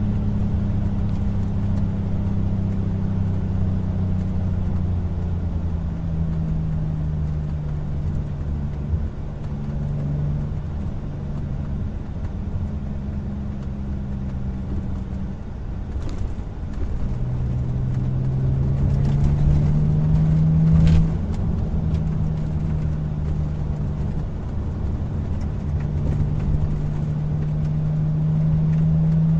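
Audi A4 B6's 3.0 V6 engine running through Remus mufflers and a custom H-pipe exhaust with the secondary cat deleted, on a drive. The engine note holds and eases off at first, climbs steadily for a few seconds past the middle, drops sharply, then rises again near the end.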